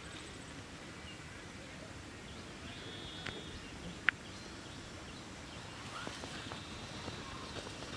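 Quiet open-air background with a few faint high bird chirps and one sharp click a little after four seconds; light rustling builds near the end.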